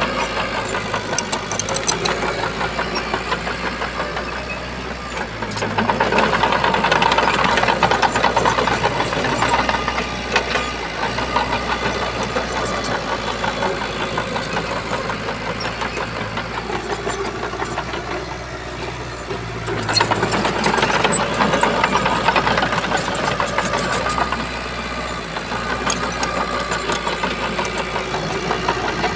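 Shantui bulldozer's diesel engine running steadily, growing louder twice for a few seconds each time and then easing back.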